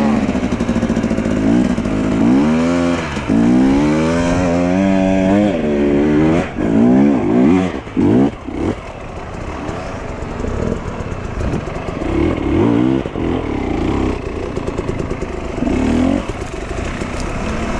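Dirt bike engine revving, its pitch climbing and dropping again and again through gear changes, then running more steadily at lower revs for the second half.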